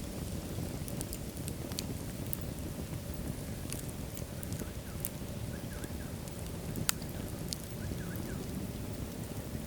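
Wood fire burning in a fireplace: a steady low rumble of flames with scattered sharp crackles and pops, one louder pop about seven seconds in.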